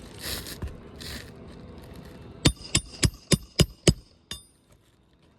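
Two brief scraping rustles, then seven quick hammer blows driving a roofing nail into an asphalt shingle's nailing strip, about three or four a second, each with a short metallic ring.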